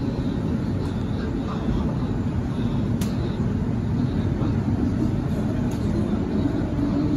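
Steady low rumble of a CRRC-Downer B-set electric train running through a tunnel, heard from inside the carriage, with a single sharp click about three seconds in.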